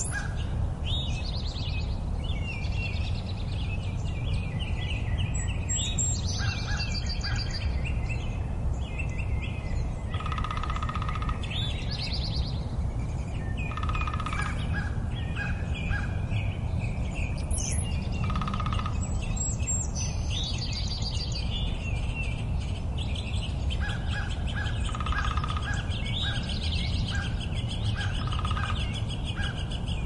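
Several songbirds singing and calling: overlapping chirps and trills, with a short lower note repeated every few seconds, over a steady low background rumble.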